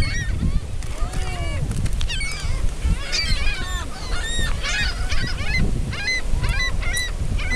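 A flock of seagulls calling over one another: many short, high squawking calls in quick succession, over a steady low rumble.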